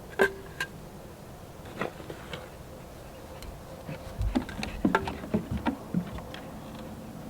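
Clicks and knocks of pots and tools being handled while repotting plants: a few sharp taps at first, then a quick flurry of them with a dull thump, about four to six seconds in.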